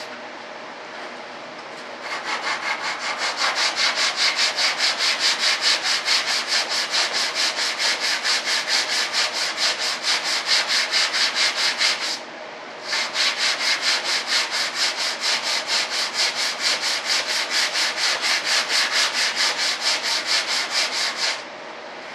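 Sandpaper being rubbed by hand over a model aircraft's tail stabilizer in quick, even back-and-forth strokes, about four a second. The sanding stops for about a second around halfway through, then carries on.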